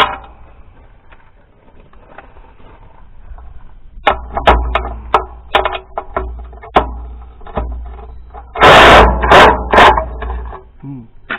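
Hand tools working on metal: a run of sharp clicks and knocks over a low rumble, then three loud, noisy bursts a little under a second apart near the end.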